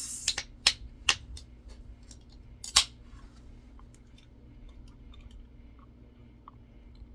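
A Coca-Cola being opened: a brief fizzing hiss right at the start, then a handful of sharp clicks and knocks over the next three seconds, the last of them the loudest, followed by only faint small ticks.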